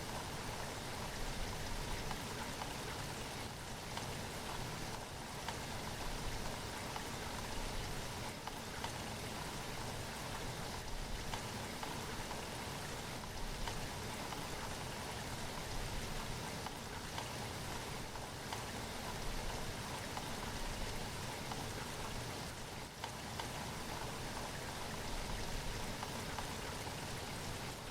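Steady rain falling: an even hiss made of countless small drops landing, with no change in strength.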